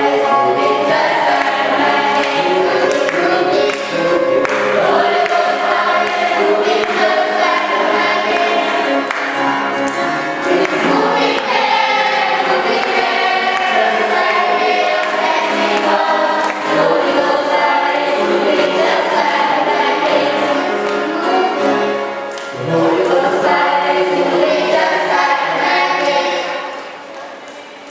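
Choir singing, dying away about a second before the end.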